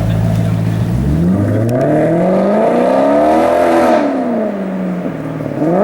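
Maserati Quattroporte GTS 4.7-litre V8 with a Larini sports exhaust accelerating: the exhaust note climbs steadily in pitch for a couple of seconds, then falls as the driver lifts off, and rises quickly again near the end.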